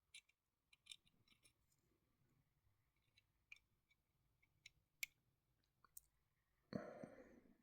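Faint scattered clicks and taps of small plastic model parts being handled and fitted by hand, with a brief louder rustle near the end.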